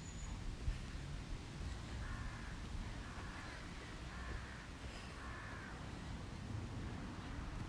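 A bird calls four times in a row, each call lasting about half a second, over a steady low background rumble.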